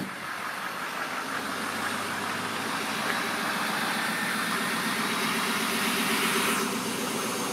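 A 5-ton diesel truck's engine running steadily.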